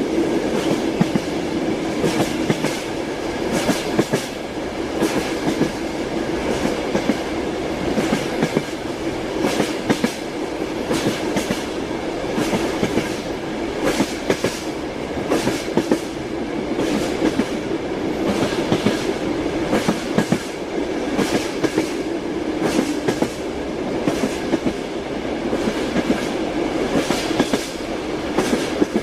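Train wheels clacking over rail joints in repeated clusters of sharp knocks, over the steady rumble and hum of a moving railway carriage.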